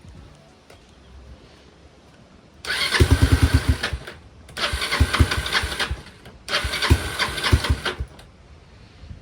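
Kawasaki 250TR single-cylinder engine being cranked by its starter three times, each try lasting about a second and a half, without catching. It is the hard-starting sign of the bike's stalling fault, traced to a dirty carburettor.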